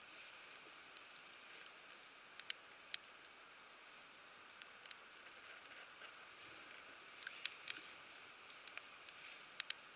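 Wood fire crackling in a fire pit: sharp, irregular pops and snaps over a faint steady hiss.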